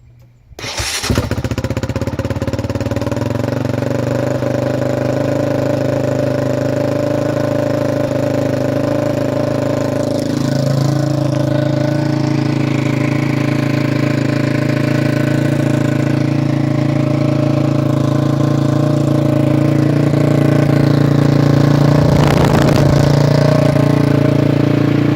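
2005 Honda CRF450X single-cylinder four-stroke dirt bike engine starting on choke about half a second in, then idling steadily and loudly. The idle steps up slightly about ten seconds in, with a brief noisier swell near the end.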